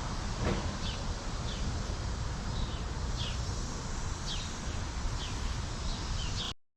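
Small birds chirping: short, high chirps falling in pitch, roughly one every half second to a second, over a steady hiss-like noise. The sound cuts off abruptly near the end.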